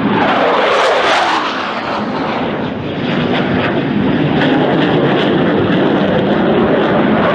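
F-15 Eagle's twin jet engines roaring as the fighter flies low past, the roar sweeping down and back up in pitch over the first second or so, then holding steady and loud.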